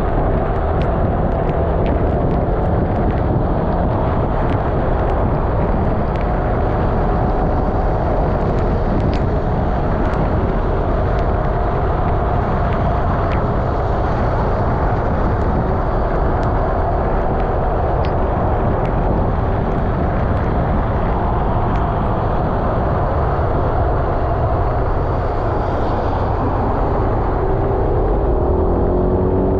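Yamaha XMAX 300 single-cylinder scooter under way: a steady rush of wind and road noise with the engine's drone beneath it and scattered small ticks. Near the end the engine note rises as the scooter accelerates.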